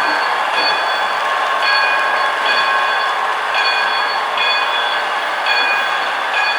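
Model train running on the layout: a steady whirring hiss with a set of high tones that switch on and off about once a second.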